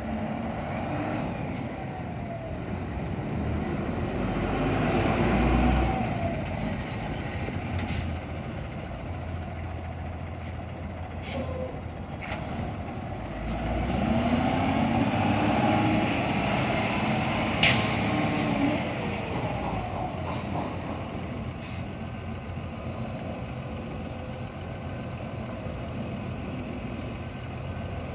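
2007 Ford F750 dump truck's engine running, revving up and back down twice, with a short sharp air-brake hiss during the second rev.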